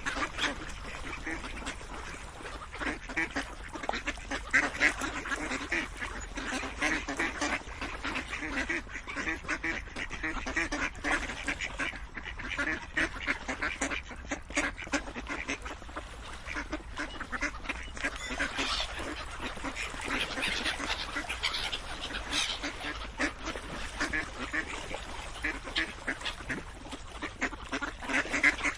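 A flock of ducks quacking nonstop, many calls overlapping at once.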